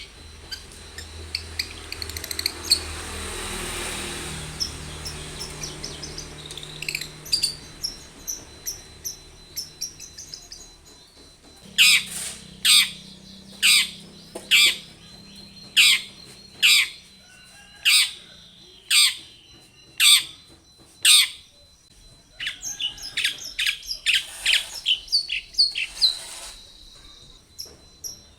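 Long-tailed shrike (cendet) singing: quick scratchy chatter at first, then a run of about ten loud, harsh calls roughly a second apart, then more quick chatter near the end.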